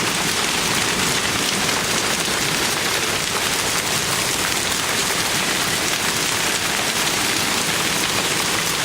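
Heavy hail pelting down in a dense, steady clatter of many small impacts blending into a continuous roar. The hailstones are getting bigger.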